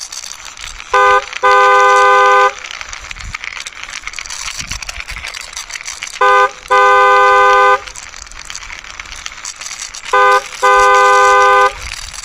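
Car horn honking three times, each time a short toot followed by a longer toot of about a second, a two-note horn chord. A steady rattling noise runs underneath.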